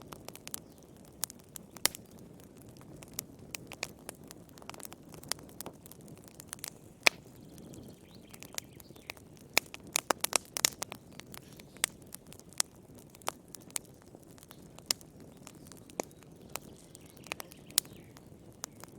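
Wood fire crackling in a fireplace: irregular sharp pops and snaps over a soft low rush of flame, with a quick flurry of pops about halfway through.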